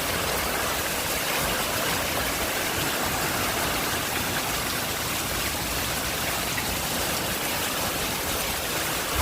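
Heavy rain falling steadily in a storm, a constant even hiss.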